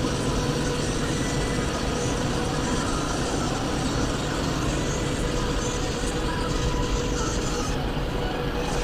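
Car wash machinery running: a steady noisy rush with a faint steady whine underneath.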